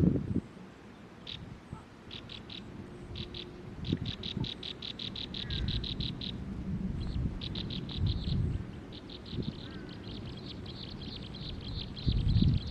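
Small bird chirping in fast runs of short, high, evenly repeated notes, a few at first and then long quick series from a few seconds in, over a low rumble.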